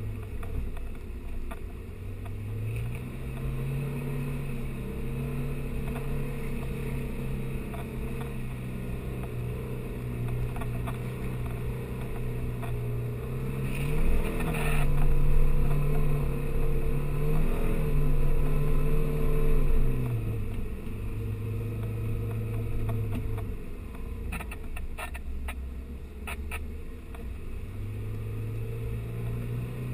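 Off-road 4x4 engine running under varying throttle, its revs stepping up and down several times and loudest about halfway through. A few sharp knocks come a little after that.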